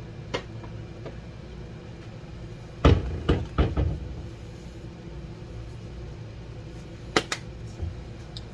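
Kitchen handling noises as seasoning is added to the bowl. A cluster of sharp knocks and clacks comes about three seconds in, and two quick clicks near the end, over a steady low hum.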